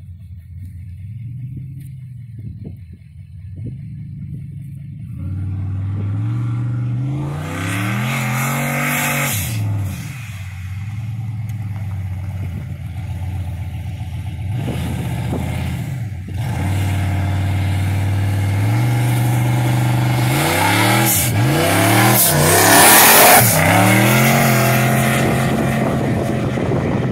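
Fox-body Mustang race car's engine revving hard in repeated bursts, the pitch climbing and falling back several times, with the rear tyres spinning and smoking, then pulling away at full throttle. The loudest, hissiest stretch comes about three-quarters of the way through.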